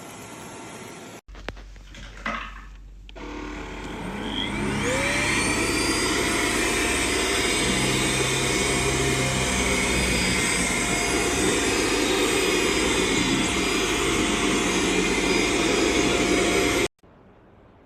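Xiaomi Mijia dust-mite mattress vacuum cleaner: two clicks, then the motor spins up with a rising whine and settles into a steady high whine with a rush of air. The sound cuts off suddenly near the end.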